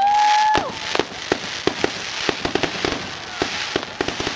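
Fireworks finale: a quick string of sharp bangs and crackling reports from aerial shells, opening with a short steady whistle that cuts off about half a second in.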